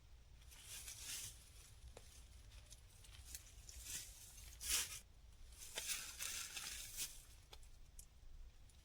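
Irregular rustling and crinkling, in short bursts, with a few light clicks; the loudest crinkle comes about halfway through.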